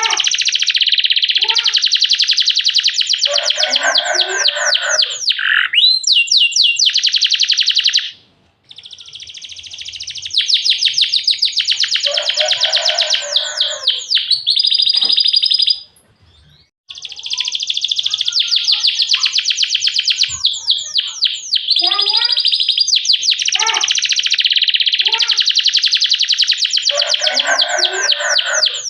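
Domestic canary singing a long, continuous song of rapid rolling trills and fast repeated chirps. The song breaks off briefly twice, about 8 and 16 seconds in.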